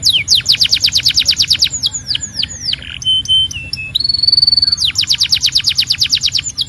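Canary singing: a fast trill of repeated falling notes, about ten a second, then a few slower falling notes and two short steady whistles near the middle, and another fast trill.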